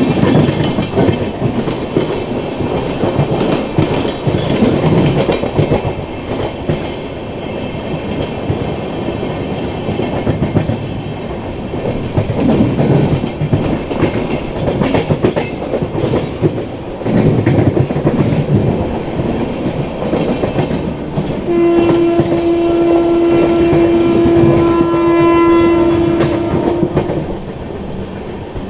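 Express train running at speed, heard from an open coach door: the wheels rumble and clatter over rail joints and points. About 21 seconds in, a locomotive horn sounds one long steady blast lasting about five seconds.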